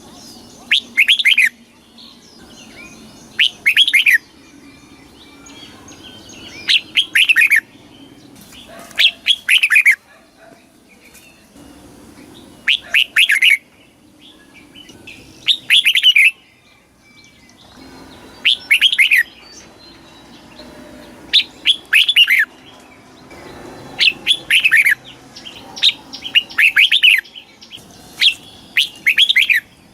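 Red-whiskered bulbul singing: short, loud phrases of quick, slurred whistled notes, repeated every two to three seconds.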